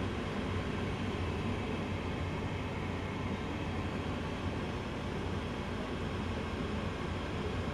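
Lennox gas furnace in its startup sequence before the burners light: a steady rushing hum, with a low hum underneath, typical of the draft inducer motor purging the heat exchanger.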